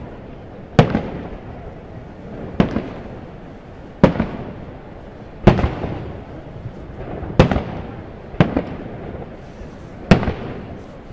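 Aerial fireworks shells bursting one after another: seven sharp booms, roughly one every second and a half, each followed by a fading echo.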